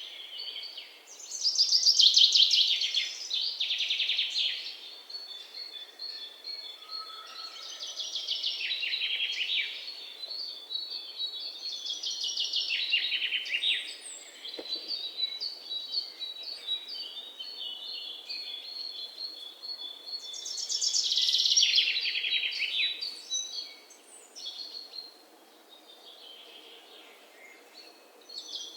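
Birdsong: birds chirping and trilling in quick runs of high notes, in bouts with quieter gaps, over a faint steady hiss. The song fades to a lull near the end.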